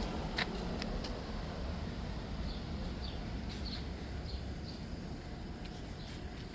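Passing train: a steady low rumble with scattered sharp clicks and a few faint high chirps, slowly fading.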